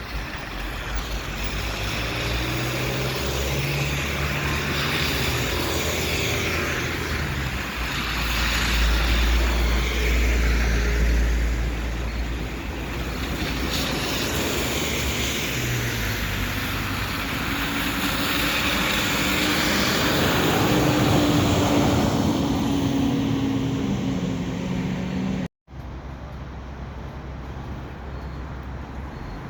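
City bus traffic: large vehicles pulling away and passing, their engine pitch rising and falling several times over steady street noise. The sound cuts off abruptly near the end, then quieter traffic noise follows.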